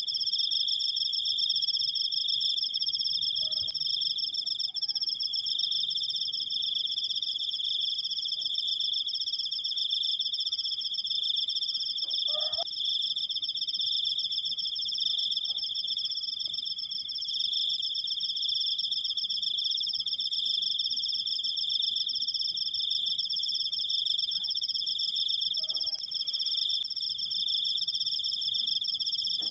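Cricket singing a long, unbroken high-pitched trill, steady throughout.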